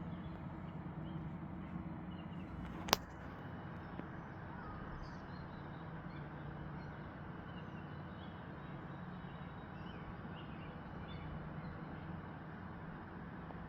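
Faint, scattered bird calls over a steady low hum, with one sharp click about three seconds in.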